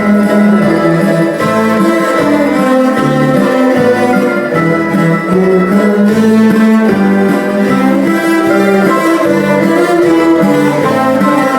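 Ensemble of cellos playing a piece together, sustained bowed notes in several parts.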